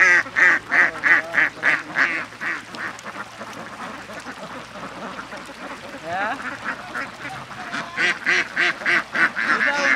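A bird calling in a rapid series of short, evenly spaced calls, about four a second. The calls fade in the middle and come back loud near the end.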